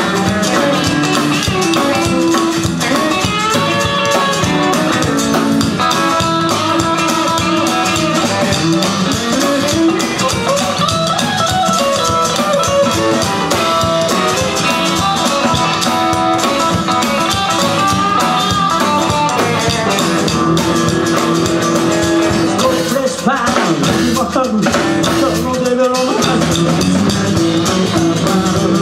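Rock band playing an instrumental passage of the song: guitar over a drum kit, loud and continuous.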